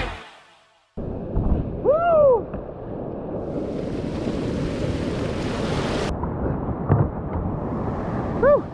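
Steady rushing of fast tidal whitewater with wind on the microphone, starting about a second in as music fades away. Two short rising-and-falling calls cut through it, about two seconds in and again near the end.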